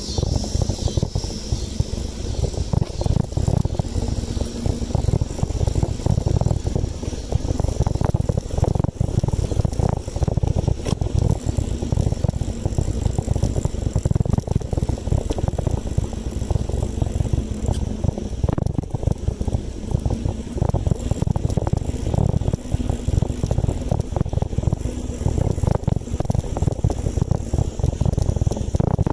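Steady low rumble of wind buffeting the microphone along with tyre and road noise from a moving bicycle, with a few light clicks and rattles.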